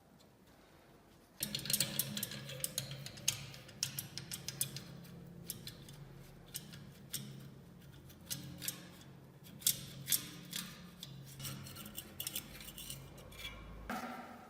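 Irregular sharp clicks and scraping of metal parts being worked with hand tools, starting about a second and a half in, over a steady low hum.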